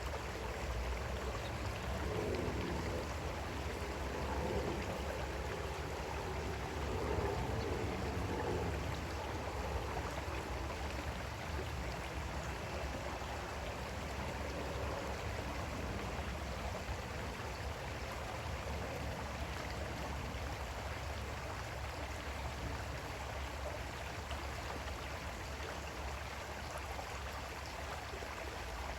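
Creek water flowing steadily over stones, a continuous babble that is a little fuller in the first several seconds.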